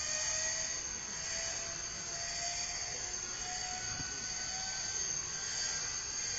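The Zero's hand-cranked inertia starter is being wound up, its faint whine rising slowly in pitch over a steady hiss. The aircraft engine is not yet running.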